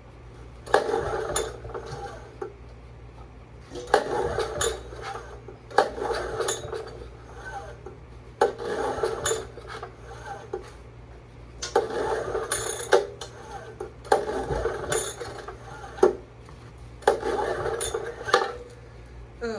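Honda EM3000 generator's recoil starter pulled about seven times, every two to three seconds. Each pull is a brief clattering crank of the engine that does not catch.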